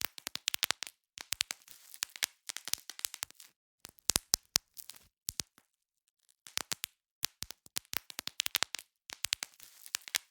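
Bubble wrap being popped by hand: quick runs of sharp pops with the plastic crinkling between them, in bursts broken by short pauses, the longest about five seconds in.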